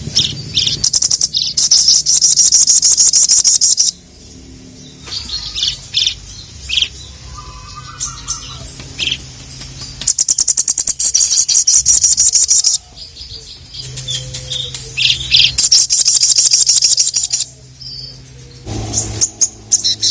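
A sogon (sogok ontong, a spiderhunter) singing hard. It gives long runs of very fast, sharp, high repeated notes three times, each lasting a few seconds, with quieter gaps of scattered single notes in between.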